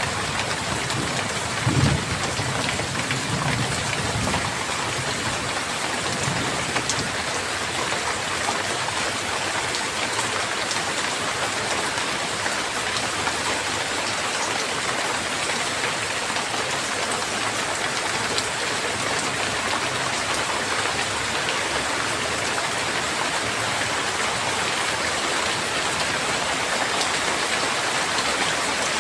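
Steady, dense rainfall hissing on surfaces, with a low rumble of thunder that peaks about two seconds in and dies away within the first few seconds.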